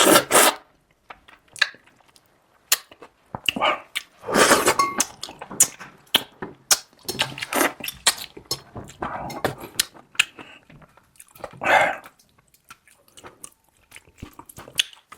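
Close-up eating sounds of a person chewing and sucking on anglerfish fin: wet smacking clicks and irregular slurping bursts.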